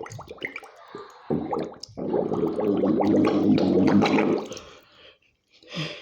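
Water splashing and gurgling. It starts with scattered splashes, swells to a loud, steady rush for about three seconds in the middle, then dies away.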